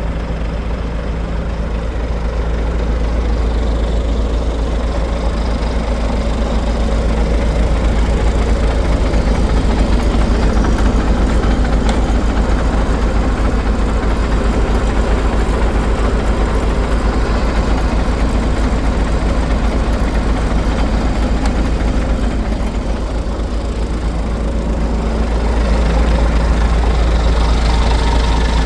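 Renault Magnum AE 420 truck's diesel engine running steadily at idle, getting slightly louder about a quarter of the way in and again near the end.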